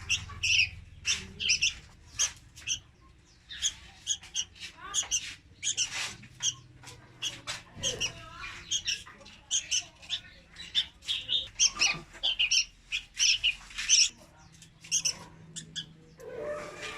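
Juvenile red-whiskered bulbuls calling: a rapid run of short, high chirps, several a second, with brief pauses.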